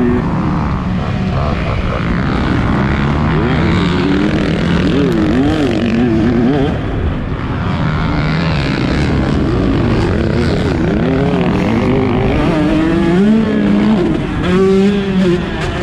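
Husqvarna TC 125's two-stroke single-cylinder engine racing on a motocross track, its pitch rising and falling again and again as the throttle is opened and closed through the corners and jumps.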